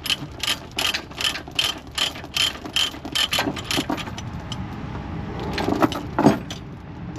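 Ratchet load binder on a tractor's tie-down chain being worked, clicking about three times a second for some four seconds as the chain is released for unloading. It ends in a few heavier clanks near the end.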